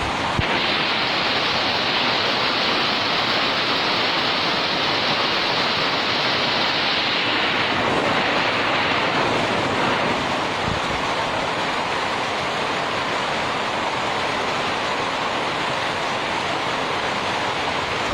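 Hailstorm: hail and rain coming down heavily as a dense, steady noise, easing a little about eight seconds in.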